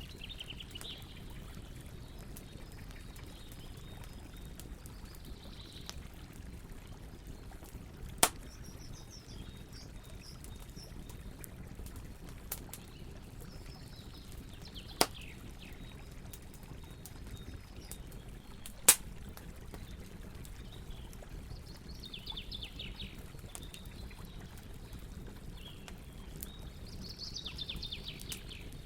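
Campfire burning with a steady low hiss, and three sharp pops of the burning wood, one about eight seconds in, one near the middle and one a few seconds later. Short bursts of chirping calls come and go on top.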